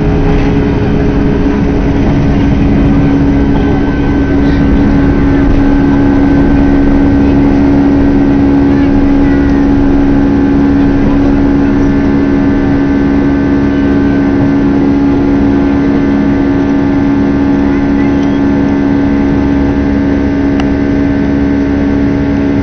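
Passenger jet's engines droning steadily, heard from inside the cabin: a constant rumble with a steady hum, as the plane flies on after take-off.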